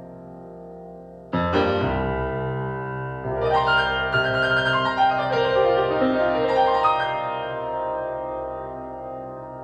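Piano-like keyboard playing: a chord struck about a second in, then a run of notes over ringing, held tones that slowly fade toward the end.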